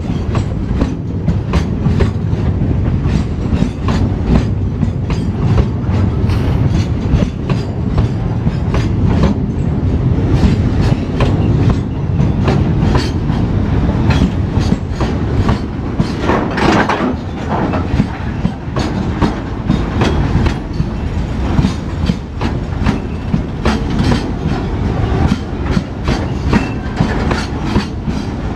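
Freight train of tank wagons passing close by: a steady rumble of the wheels with a rapid, continuous clickety-clack over the rail joints. A little past halfway there is a brief harsher, higher-pitched stretch.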